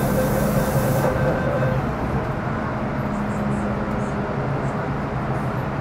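Interior running sound of a Metro Cammell M-Train EMU with GEC GTO chopper traction control pulling away from a station: a steady rumble under a chopper hum of two tones, the higher one dropping out a little before two seconds in. A high hiss cuts off about a second in.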